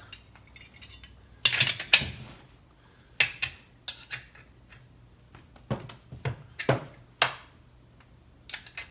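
Metal hand tools clinking and knocking against one another and the chainsaw: about ten separate sharp clinks, the loudest pair about one and a half to two seconds in.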